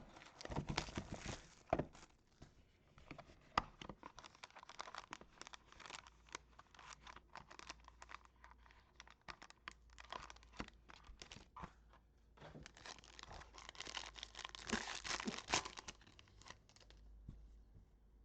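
Baseball card packaging being torn open and crinkled, with cards handled and shuffled: an uneven run of rustles and small clicks, with a longer, louder stretch of tearing and crinkling about two-thirds of the way through.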